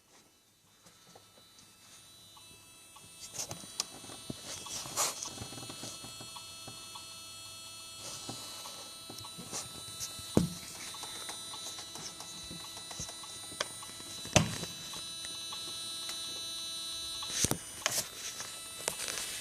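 Volkswagen Golf Mk5 2.0 SDI diesel engine running with a steady, many-toned hum that grows louder over the first few seconds, broken by a few sharp knocks or clicks. It is the strange engine noise the owner is asking about.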